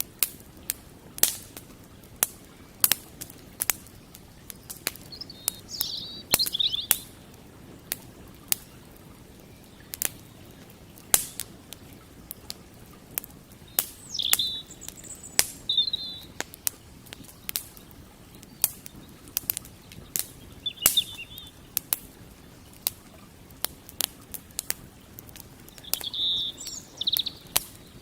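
Campfire wood crackling, with sharp, irregular pops several times a second. A small bird chirps in four short bursts between the pops.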